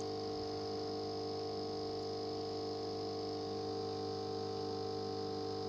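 A steady electric hum made of several constant tones, unchanging throughout.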